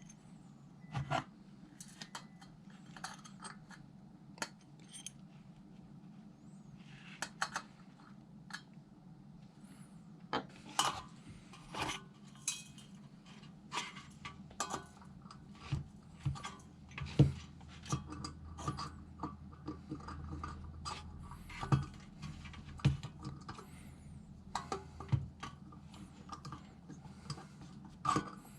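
Irregular clinks, knocks and light scraping of metal as a thin steel fire pit is worked on with a hand taper reamer to widen its air holes, over a steady low hum.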